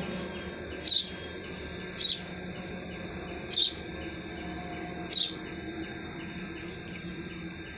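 A bird chirping four times, short sharp high chirps spaced a second or more apart, over a steady faint outdoor background.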